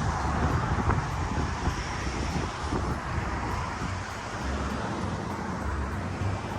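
Steady traffic noise: car engines and tyres rumbling along a busy road.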